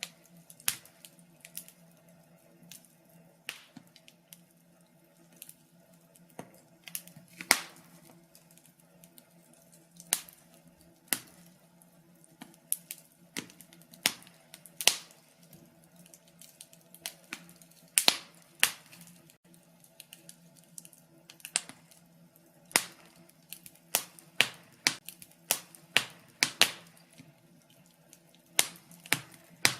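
Wood fire crackling in a fireplace: irregular sharp pops and snaps, bunched more closely in the second half, over a faint steady low hum.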